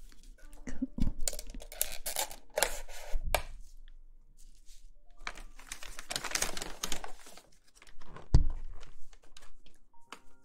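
Close-miked ASMR rustling and scratching in two long stretches, with a sharp tap near the end, over faint background music.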